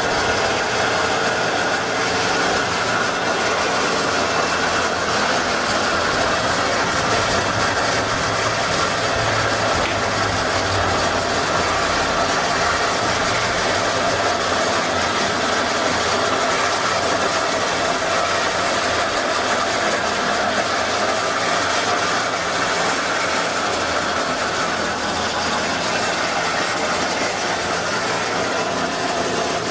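Steady vehicle running noise with no distinct events.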